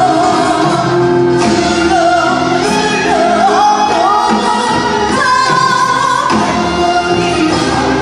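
Korean fusion gugak orchestra playing, with a bending, wavering melody line over a steady accompaniment.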